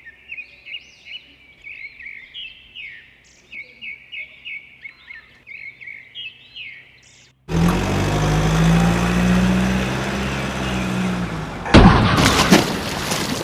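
Birds chirping in quick repeated calls for about seven seconds. Then a much louder vehicle engine running starts abruptly, and near the end a loud, noisy rushing burst takes over.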